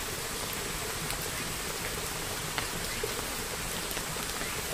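Steady rain, with a few faint, sharp drop ticks scattered through it.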